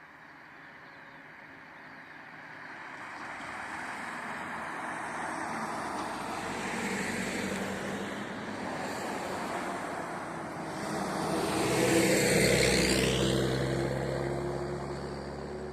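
A vehicle passing by, growing louder over several seconds, loudest about twelve seconds in, then fading away.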